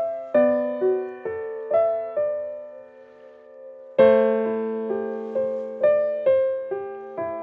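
Background music: a slow, gentle solo piano melody, single notes about two a second, pausing a little after two seconds in and resuming with a louder chord at about four seconds.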